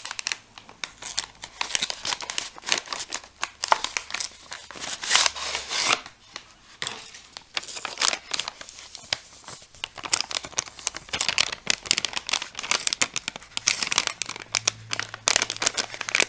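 Plastic MRE flameless ration heater bag and foil entree pouch crinkling and rustling continuously as the hot pouch is worked and pulled out of the heater sleeve.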